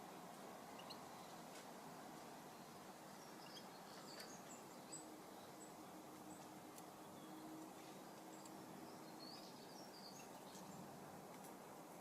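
Faint, scattered high chirps of small garden birds over quiet background noise, clustering about four seconds in and again near the end.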